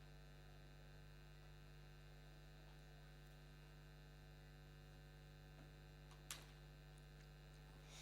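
Near silence with a steady electrical hum, and a single faint click about six seconds in.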